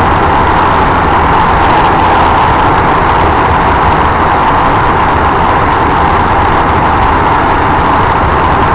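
Running noise of a JR West 223 series 1000 electric train heard from inside its leading car, travelling at speed through a tunnel: a loud, steady rumble that holds even throughout.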